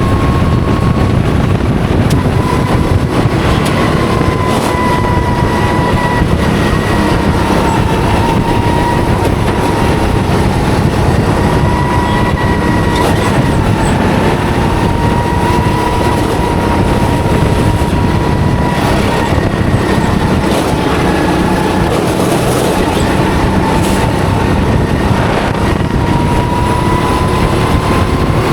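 Go-kart running flat out on track, recorded onboard: a steady drone with a thin whine that rises and falls slightly in pitch through the lap, mixed with rushing wind.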